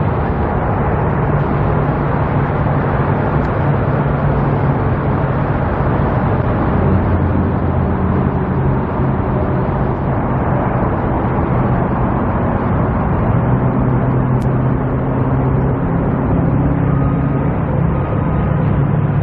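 Steady rumble of motor vehicle traffic, with engine hum drifting slowly up and down in pitch.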